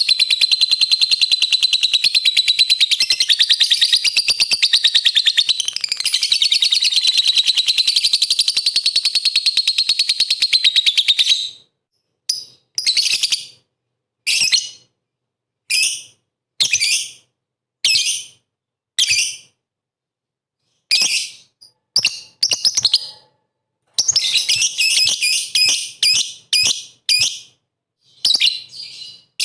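Lovebird chattering: a high, rapid, unbroken trill for about eleven seconds, then short bursts about a second apart, coming quicker and closer together near the end.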